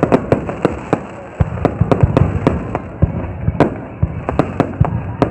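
Fireworks exploding, a rapid irregular run of sharp bangs, several a second, over a low rumble, with a short lull about a second in.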